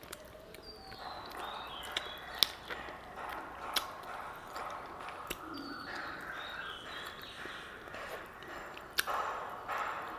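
Close-miked eating sounds: wet chewing and mouth noises from a mouthful of rice and curry, with scattered sharp clicks.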